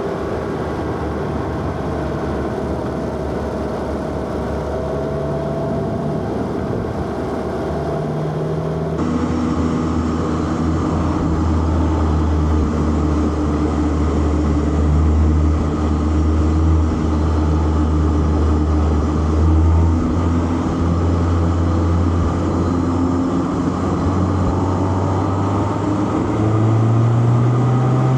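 Four-cylinder car engine pulling steadily at moderate revs with road and tyre noise, its note climbing near the end as the car accelerates.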